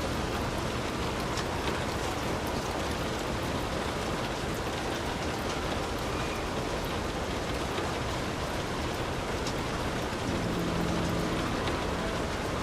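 Heavy rain falling steadily, with scattered sharper drops standing out from the dense hiss. About ten seconds in, a low steady hum of several tones comes in under the rain.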